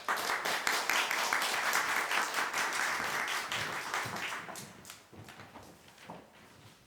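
Audience applauding, starting abruptly and dying away after about four to five seconds, followed by a few faint knocks.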